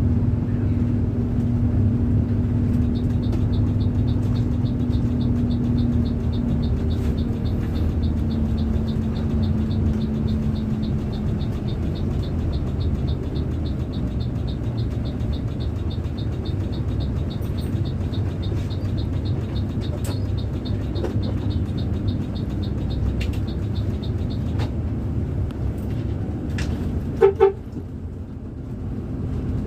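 A bus engine runs steadily as the bus drives along. A fast, even high ticking goes on through much of it, and a horn gives two short toots near the end.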